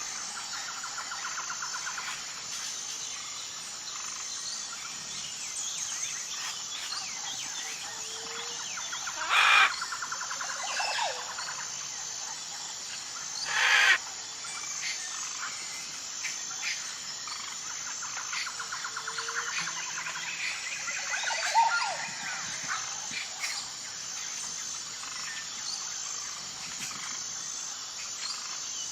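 Wild birds chirping and calling over a steady, high, pulsing insect chorus, with runs of rapid trills recurring every several seconds. Two louder short calls stand out, about nine and fourteen seconds in.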